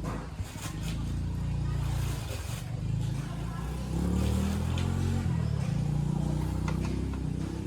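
Motorbike engine starting up about a second in and running, its pitch rising and wavering from about four seconds in as it is revved.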